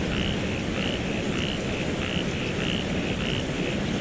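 Frogs calling in a repeated chorus, short high calls about two a second, over steady rain with a low rumble.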